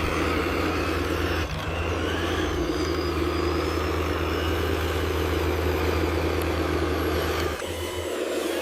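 Radio-controlled construction machine running steadily with an engine-like drone and a low hum; the lowest part of the hum drops out near the end.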